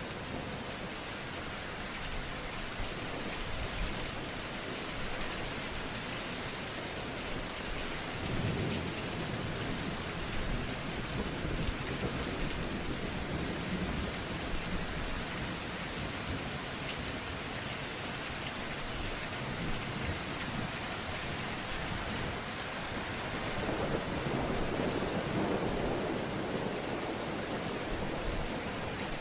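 Steady rain falling in a thunderstorm, a continuous hiss, with low rolling thunder swelling up about a third of the way in and again near the end.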